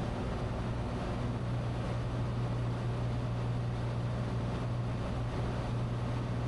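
Steady drone of a Cessna 182T's six-cylinder Lycoming IO-540 engine and propeller in cruise, heard inside the cabin as a constant low hum.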